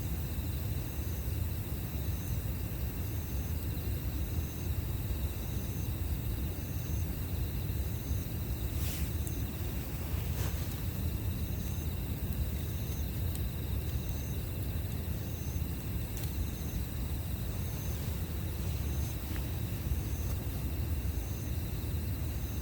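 Campfire burning with a low steady rumble and a few sharp crackles and pops. An insect chirps steadily in the background, about three chirps every two seconds.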